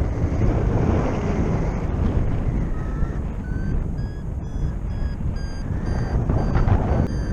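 Wind rushing over the microphone in flight, and from about three seconds in, a paragliding variometer beeping about twice a second, its pitch stepping up a little: the vario's signal that the glider is climbing in lift.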